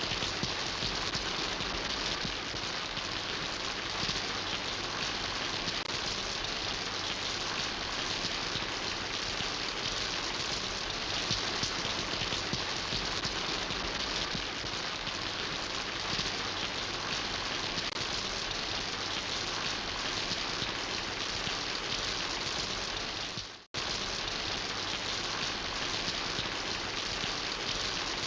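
Steady rain falling and pattering on surfaces, an even hiss that cuts out to silence for a split second about three-quarters of the way through before resuming.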